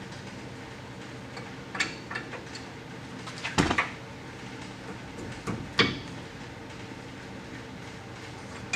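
A wrench and other metal hand tools clinking and knocking against metal a few times, the loudest knocks in the middle and about six seconds in, over a steady low hum.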